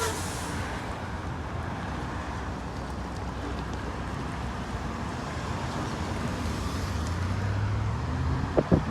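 Road traffic going by: a steady low rumble, with a vehicle's engine hum growing louder toward the end.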